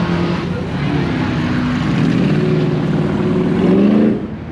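A vehicle engine running with a steady low drone; it rises in pitch as it is revved near the end, then drops away suddenly.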